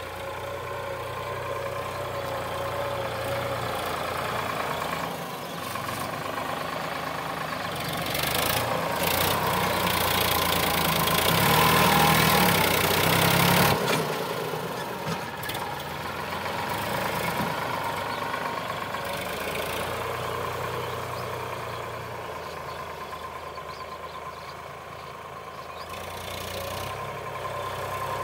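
Sonalika DI 745 tractor's diesel engine running steadily, growing louder and slightly higher about eight seconds in, then easing back down after about fourteen seconds.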